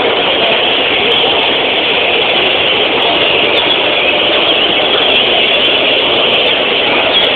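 Dense, steady din of many caged bicudos (great-billed seed finches) singing over one another, their fluted song lines wavering near the top of a muffled wash of sound.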